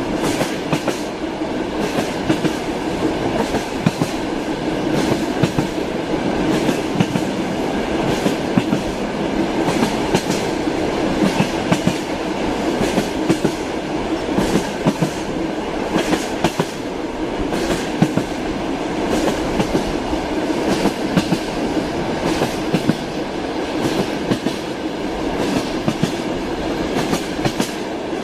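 Train wheels clacking over rail joints, with the steady rolling rumble of a moving train and frequent sharp clicks throughout.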